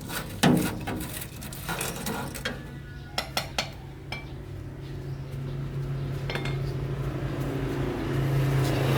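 Sharp metal clinks and knocks, like tools striking metal parts: one about half a second in and a quick run of three around three seconds. Underneath, a steady low hum grows louder through the second half.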